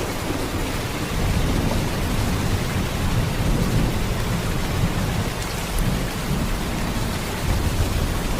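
Heavy rain in a steady, dense downpour: an even hiss over a deep low rumble, with no separate claps or strikes.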